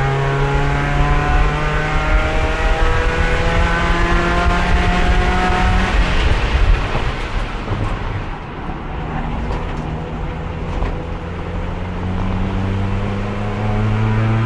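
Race car engine, held in fourth gear because the transmission is failing, pulling with its pitch slowly rising; about seven seconds in the throttle is lifted and the engine note drops away under wind and road noise, then it picks up again and slowly rises once more near the end.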